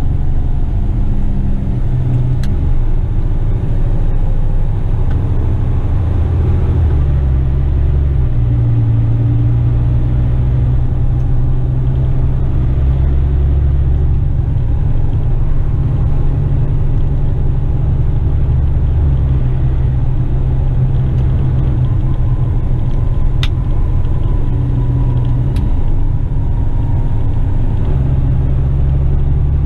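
Western Star tipper truck's diesel engine running steadily on the road, a low drone whose note shifts several times as it drives.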